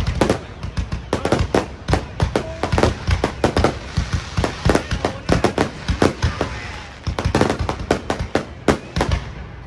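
Fireworks display: shells bursting in quick, irregular succession, several sharp bangs a second, thinning briefly to a hazy rumble midway.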